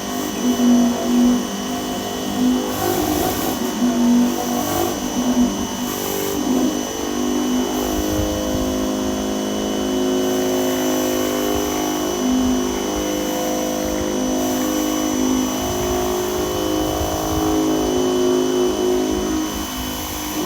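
Dewalt 2100 PSI electric pressure washer running under load, its motor and pump humming with a note that wavers up and down in pitch. A few brief hisses of water spray come early on through the sidewalk cleaner attachment.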